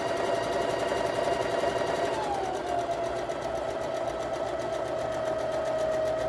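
Electric sewing machine stitching steadily at speed, seaming pieced quilt blocks. Its motor whine holds steady and settles slightly lower in pitch about two seconds in.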